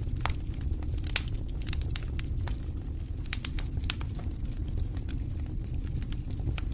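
Wood campfire crackling, with irregular sharp pops; the loudest pops come about a second in and near four seconds. A steady low rumble runs underneath.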